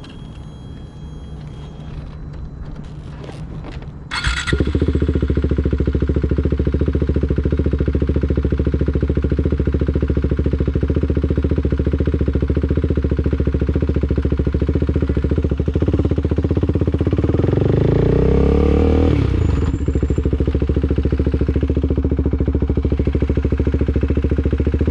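Motorcycle engine running close by, suddenly much louder about four seconds in and then running steadily. Past the middle the revs climb in a rising pitch for about three seconds, then drop back to the steady running.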